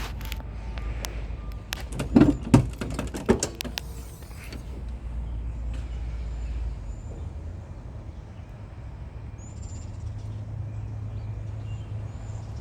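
2006 Ford F-150 pickup engine idling steadily, with a cluster of sharp knocks and clicks about two to three and a half seconds in.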